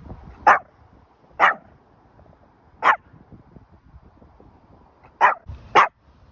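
Small dog, a Pomeranian, barking five times: sharp single barks spaced out, the last two close together near the end.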